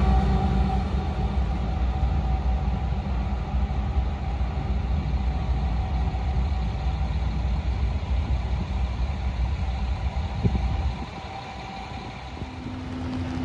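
A diesel-hauled freight train rolling away on the main line, a steady low rumble of wheels and engine that fades and drops off sharply about eleven seconds in.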